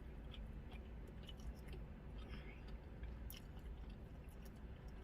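A person chewing and biting into a birria taco, with scattered small clicks and crunches of the food in the mouth, over a steady low hum.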